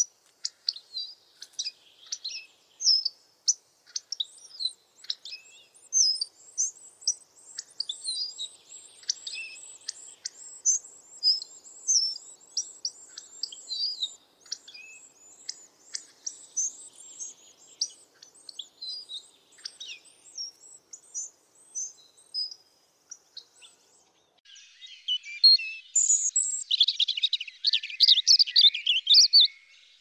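Songbirds chirping and singing: a steady stream of quick, high chirps and short whistled notes, turning into a denser, louder flurry of chirping in the last five seconds.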